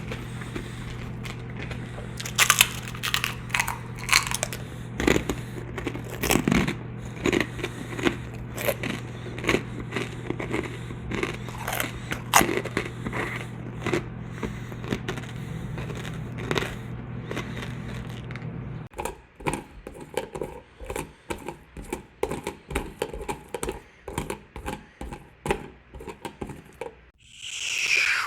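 A run of irregular crunches and clicks over a steady low hum. The hum stops about two-thirds of the way through, the crunches thin out, and a short pitched sound sweeping up and down comes near the end.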